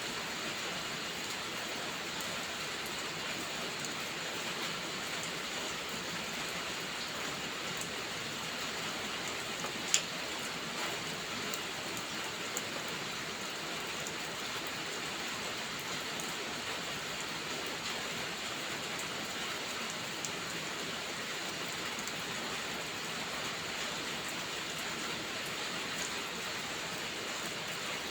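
Steady rainfall hiss. One sharp click comes about ten seconds in, with a few fainter ticks after it.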